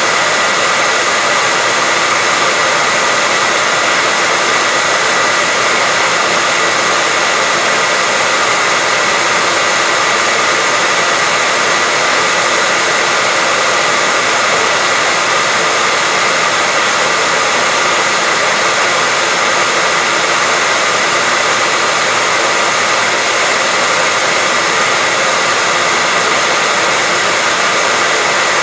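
Hair dryer running steadily: an unbroken airy rush with a thin, steady whine running through it.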